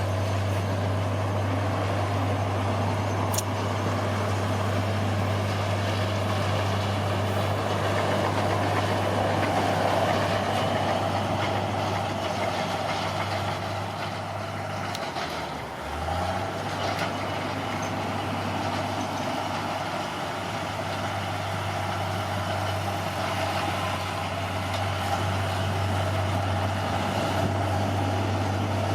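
Bulldozer's diesel engine running steadily at working revs, the low engine note dipping for about a second halfway through before picking back up.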